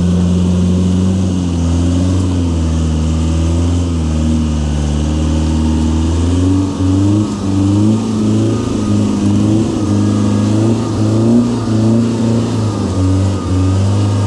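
Off-road 4x4 engine running loud under load, steady at first, then revved up and down repeatedly from about halfway through.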